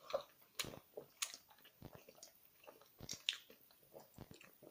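A person chewing and eating food close to the microphone: soft, irregular mouth sounds and smacks, with a few sharper clicks scattered through.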